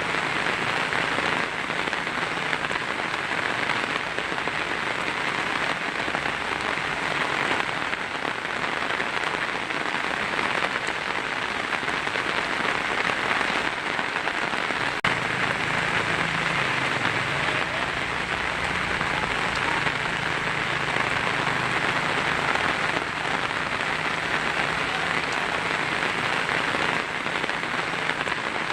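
Heavy rain falling steadily on a tin roof, a dense even patter without a break.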